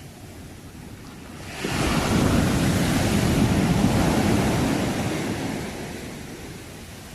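Sea wave breaking on the shore: a low wash swells up suddenly about a second and a half in, holds for a few seconds and then fades back to a soft hiss.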